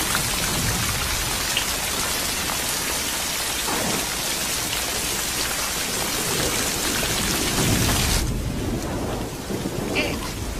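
Heavy rain pouring down, with thunder rumbling twice. The rain cuts off suddenly about eight seconds in.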